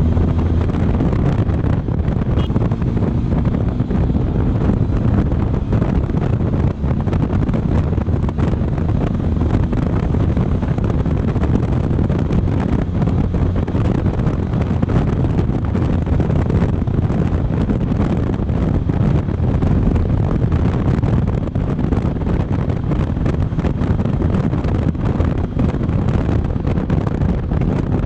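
Steady wind rushing over the microphone of a Benelli motorcycle at road speed, with the engine running underneath.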